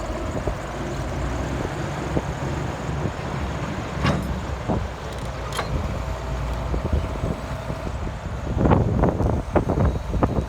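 John Deere 330 LC excavator's diesel engine running steadily, with sharp knocks about four and five and a half seconds in and a cluster of louder knocks near the end.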